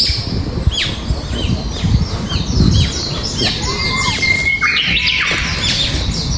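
Birds chirping: a rapid series of short, sharply falling chirps, with a steady low rumble underneath.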